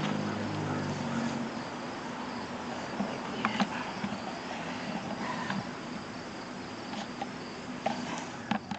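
Insects, such as crickets, chirping steadily, with a few sharp clicks and knocks scattered through the middle and near the end. A low hum fades out in the first second and a half.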